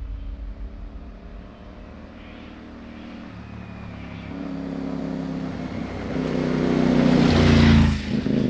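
CFMoto 450MT's parallel-twin engine labouring up a loose rocky climb, its revs stepping up and down as the throttle changes. It gets louder over the last few seconds, with a burst of noise near the top, then drops off sharply just before the end.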